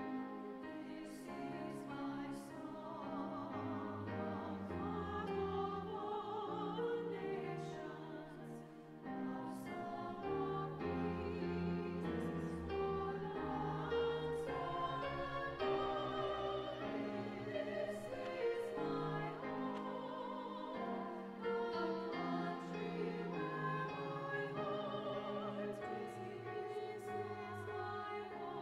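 Women's vocal ensemble singing a choral song, several voices holding wavering sustained notes together.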